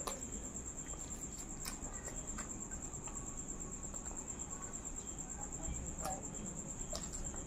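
Close-up eating sounds of a person chewing a mouthful of paratha and aloo dum, with a few sharp wet mouth clicks and smacks. A steady high-pitched trill runs underneath.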